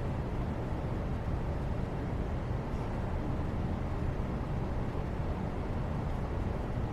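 Steady background noise: an even, low rumble with no distinct events.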